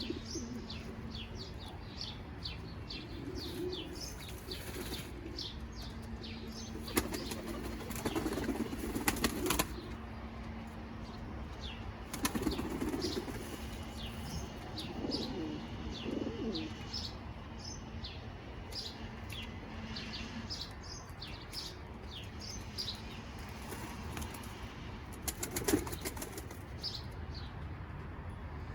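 Pouter pigeons flapping their wings in several bursts while bathing in bath water, against a steady run of short high chirps from birds.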